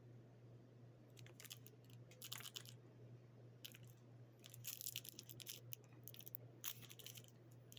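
Faint, scattered crinkling and crackling of plastic snack packaging being handled and pulled out of a box, over a steady low hum.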